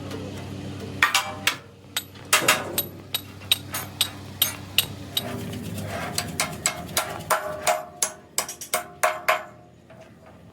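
Hammer blows on steel: an irregular run of sharp metallic strikes, a few ringing briefly, over a low steady hum.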